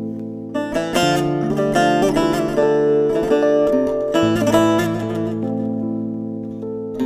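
Music played on a plucked acoustic guitar: a held chord rings, then a run of picked notes begins about half a second in and carries on.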